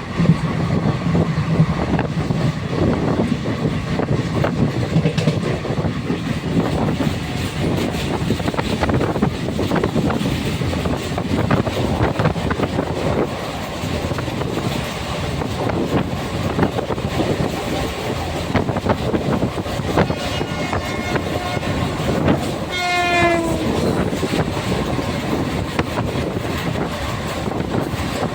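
Passenger train running on the rails, with a steady rattle and clatter of wheels over the track. A short horn sounds briefly about three-quarters of the way through.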